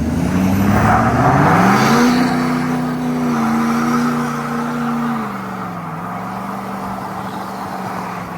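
A vehicle engine revving hard, climbing in pitch over about two seconds, then holding high. About five seconds in it drops back to a steady lower run.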